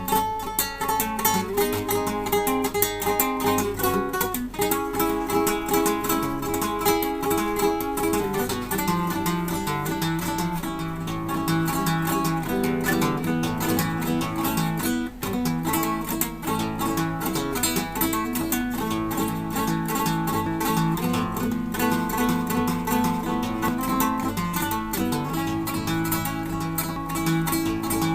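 Solo acoustic guitar playing, plucked notes over held bass notes.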